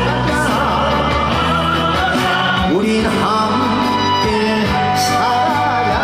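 Live trot music from a band over a PA system: steady low accompaniment under a lead melody that wavers in pitch.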